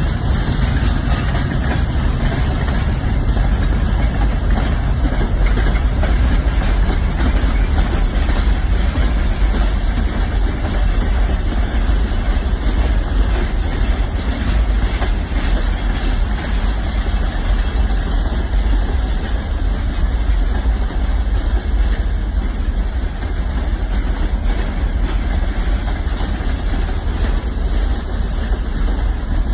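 Freight train of loaded timber wagons rolling by, a steady low rumble that holds evenly throughout.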